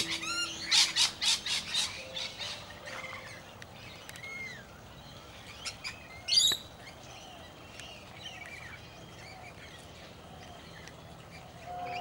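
Wild birds calling: a quick run of harsh squawks in the first two seconds, then scattered chirps, and one loud call about six and a half seconds in.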